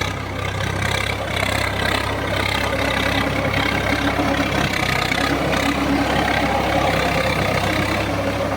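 Swaraj 855 FE tractor's three-cylinder diesel engine running steadily at an even, low speed.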